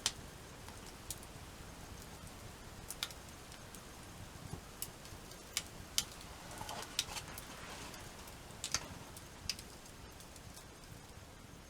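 Wood campfire crackling, with irregular sharp snaps and pops over a low steady background.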